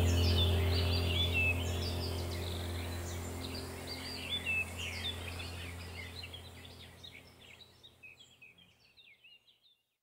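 Small birds chirping and twittering over a steady low hum, the whole fading out gradually until it is silent near the end.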